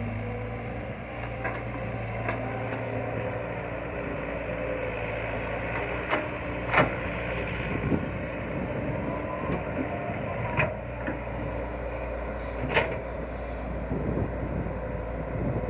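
Excavator engine running steadily while digging, with several sharp metallic knocks scattered through, the loudest about seven seconds in.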